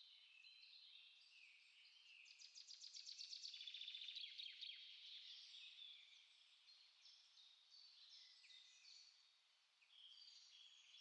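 Small songbirds singing faintly: a steady chatter of short chirps and whistled notes, with a fast trill of quickly repeated notes that swells about two seconds in and fades out by about five seconds.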